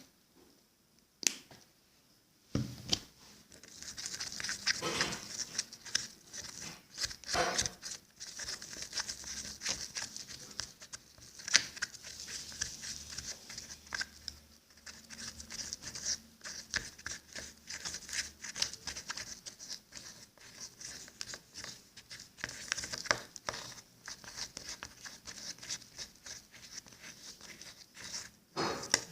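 Slime mixture of glue and powdered detergent being stirred and worked: irregular sticky crackling with scattered sharp clicks, starting about three seconds in.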